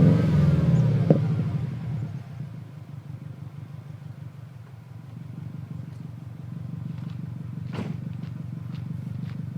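2004 Subaru WRX's turbocharged flat-four through an Apexi N1 cat-back exhaust, dropping back from a rev and settling into a steady, deep idle within about two seconds.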